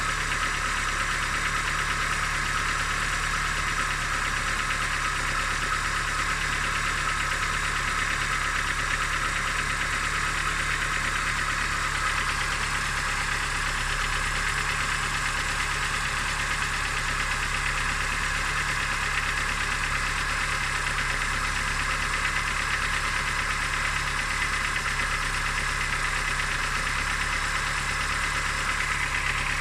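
Engine running steadily at idle with a rapid, even knock in it, the kind of knock the owner is asking others to identify.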